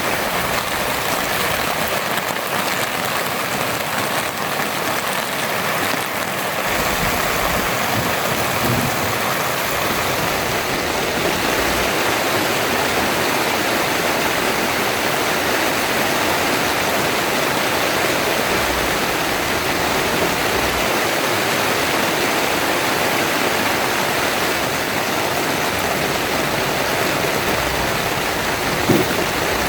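Heavy rain pouring steadily, a dense even hiss. A single short thump near the end.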